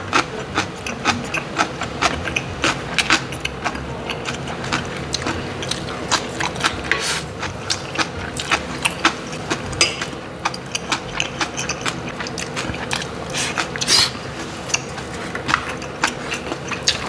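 Close-miked eating sounds: chewing, lip-smacking and wet mouth clicks in quick, irregular succession, with one louder smack about fourteen seconds in, over a faint steady hum.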